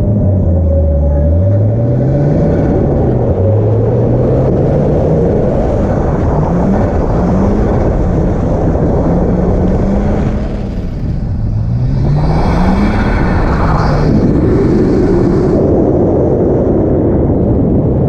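A car engine revving up and falling back again and again under hard driving on a wet skid pad, over a heavy rumble of wind and tyre noise. About twelve seconds in, a loud hissing rush rises for a few seconds, then the rumble carries on.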